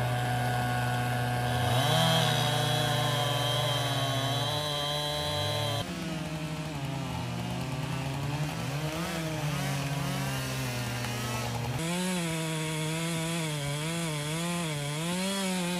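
Chainsaw running, its pitch dipping and rising as it bogs and revs. It comes in three stretches, each ending with an abrupt change in the sound.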